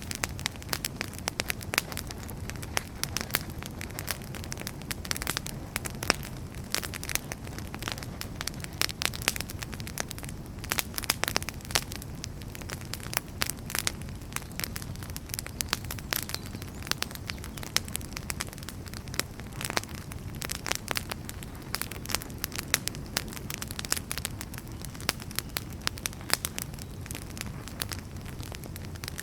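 Burning firewood crackling: many irregular sharp snaps and pops over a steady low rush of the flames.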